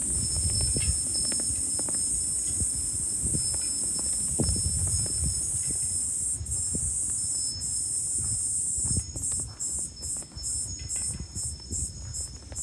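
Cicadas shrilling in a steady high drone that breaks into rapid pulses, about three a second, near the end. Wind buffets the microphone in gusts underneath.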